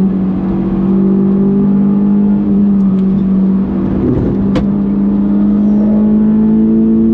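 Honda S2000's 2.2-litre F22 four-cylinder engine running at high, nearly constant revs. The note wavers briefly about four seconds in, followed by a sharp click.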